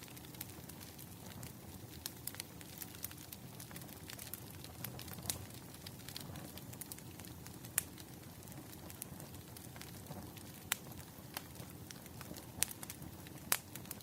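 Burning firewood crackling, with irregular sharp pops, a few of them louder, over a steady low rumble of the fire.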